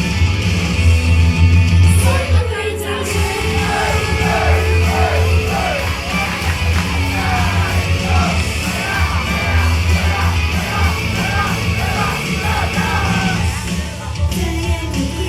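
A loud live idol rock song played through a PA, with heavy bass and guitar. About two seconds in, a voice comes in over it, singing and yelling, and it breaks off near the end.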